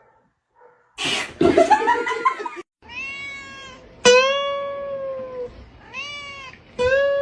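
A cat meows about a second in, its call rising in pitch, then a few long held musical notes follow, each starting sharply and fading out.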